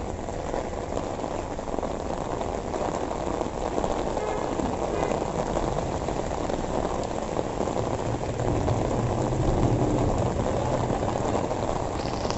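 Heavy rain falling steadily on a wet street and pavement, an even hiss, with a low engine hum from traffic on the road swelling a little past halfway.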